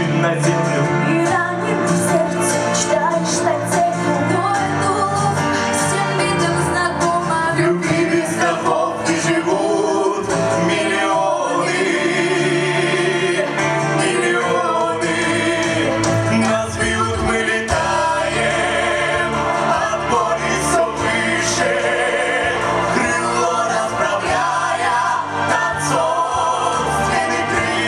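Vocal ensemble singing a song in chorus over instrumental backing, with wavering vibrato on held notes.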